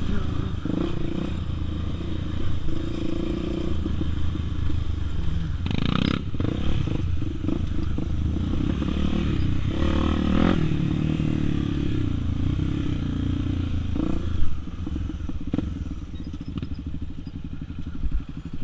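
Honda XR250 Tornado's single-cylinder four-stroke engine running while the bike is ridden, with occasional knocks and rattles.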